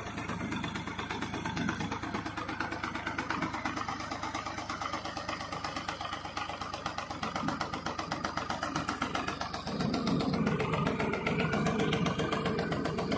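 Tractor diesel engine running steadily with a fast, even firing beat, getting louder about ten seconds in.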